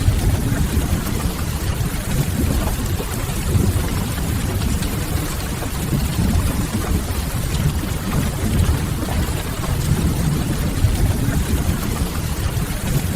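Steady rain ambience with a deep, even rumble underneath, mixed with the faint crackle of a wood fire.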